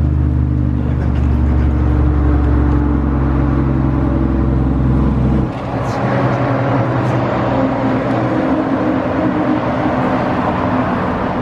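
Car engine running with a steady low hum. About five and a half seconds in, the hum cuts off and a broader rushing noise takes over.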